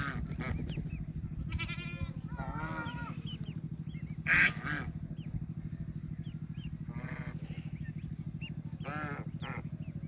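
Farmyard with ducklings peeping in short high chirps and several louder animal calls, some wavering and bleat-like, with the loudest, a single honk-like call, about four seconds in. A steady low buzzing hum runs underneath.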